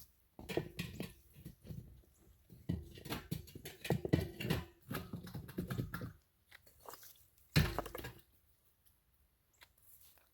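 Bricks being pushed and set into dirt and gravel by hand: irregular gritty crunching and scraping, with one louder scrape about seven and a half seconds in.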